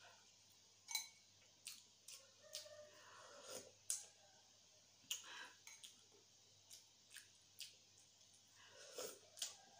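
Close-miked eating: scattered wet mouth clicks and smacks of chewing, a dozen or so short sharp clicks with the loudest about four seconds in.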